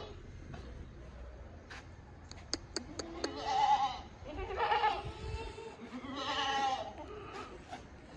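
Sirohi goats bleating: three quavering bleats about a second apart, the first and loudest a few seconds in. A run of sharp clicks comes just before the first bleat.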